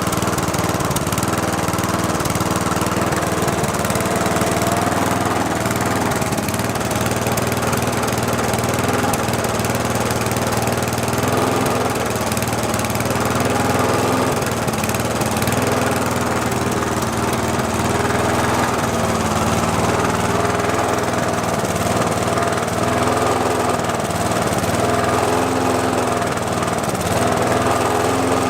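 McCulloch petrol lawn mower's small engine running steadily, its pitch wavering slightly. It has been brought back to life after its combustion chamber was full of oil, and the owner calls it a nice running engine.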